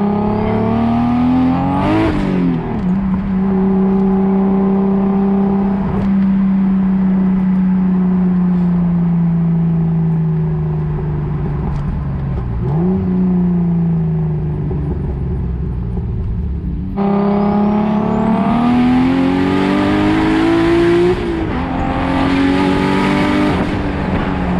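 Turbocharged BMW M52 straight-six in a 1999 E36 323i pulling hard under throttle: engine pitch climbs, drops sharply at an upshift with a short burst of noise, holds and eases off, then climbs again through another shift near the end.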